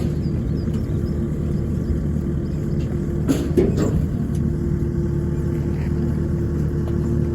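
A motor vehicle driving, with a steady low engine and road drone and a couple of brief knocks about three and a half seconds in.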